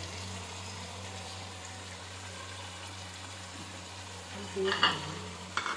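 Sliced potatoes frying gently in a pan over a gas flame, a soft steady sizzle under a constant low hum. A short sharp knock about five seconds in.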